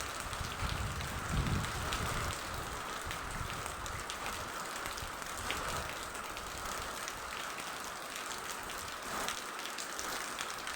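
Steady rain falling, with many separate drops ticking close by. Low rumbling sounds in the first couple of seconds.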